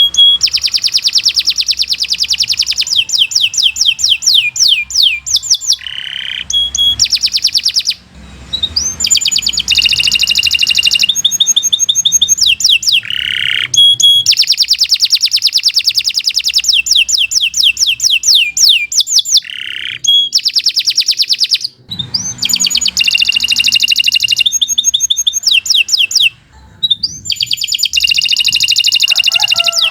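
Domestic canary singing a long, fast song: phrase after phrase of rapid trills of repeated high notes with short rising sweeps between them, broken only by a few brief pauses.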